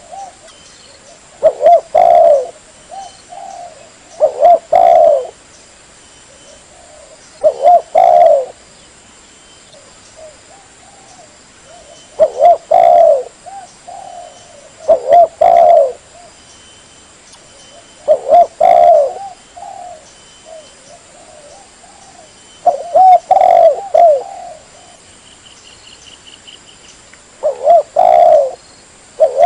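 Spotted dove cooing, repeating a short phrase of falling coo notes every three to four seconds, with faint chirps between the phrases. This is a lure call meant to draw in wild spotted doves.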